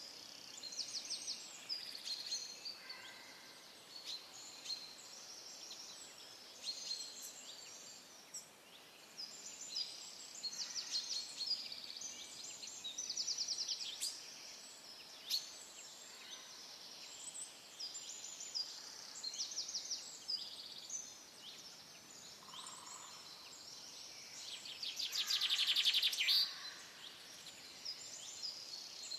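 Songbirds singing: high, rapid trills and chirps repeated every second or two over a faint steady background hiss, with one louder, longer trill near the end.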